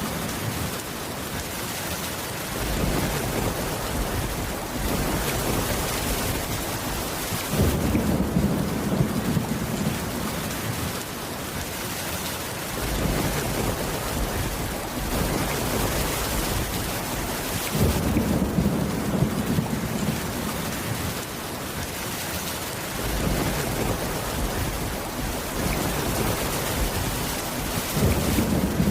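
Steady rain with low rumbles of thunder that swell and fade again every few seconds.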